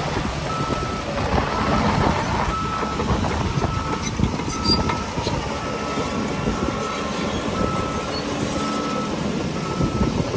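Reversing alarm on heavy earthmoving machinery, a steady beep about once a second, over the continuous running of a diesel engine.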